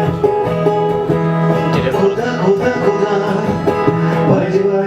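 Live instrumental music on a plucked string instrument, playing a repeating figure over a held low note.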